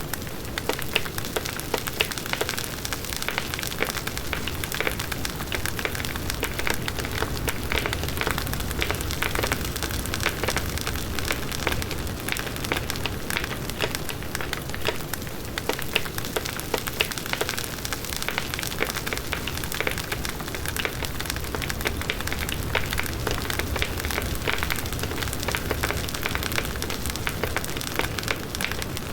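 Large wood bonfire burning: dense, continuous crackling and popping of burning wood over the low rush of the flames.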